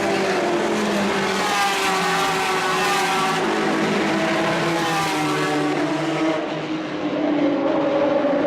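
Several endurance race cars' engines running hard at the track, overlapping, their pitch rising and falling as they accelerate and slow. The sound dulls and dips briefly about seven seconds in.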